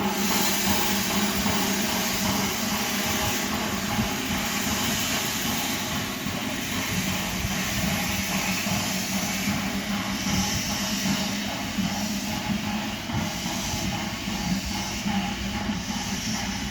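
LB&SCR H2 Atlantic steam locomotive 32424 Beachy Head hissing steam steadily, with a steady low hum underneath.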